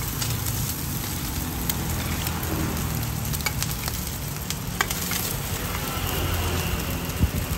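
Fried eggs and crispy taro-and-oyster omelette sizzling in oil on a large flat griddle pan, with a few sharp clicks of metal spatulas scraping and tapping the pan, over a low steady rumble.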